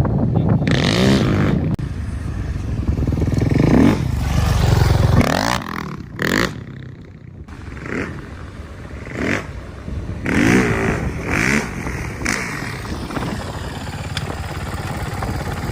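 A motor vehicle engine revving up and down several times. It is loudest in the first five seconds, eases off around six to seven seconds in, then revs again about ten seconds in.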